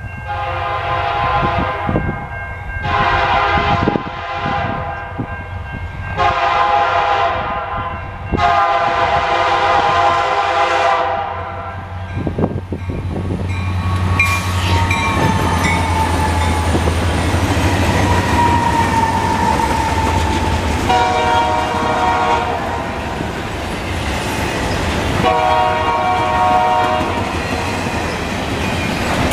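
Diesel locomotive air horn on a Canadian National intermodal freight train sounding four blasts as the train approaches, the last the longest. The lead diesel-electric locomotives then pass with a low engine rumble. Two more horn blasts follow, a little lower in pitch as the locomotives move away, while the container well cars roll by with wheel clatter.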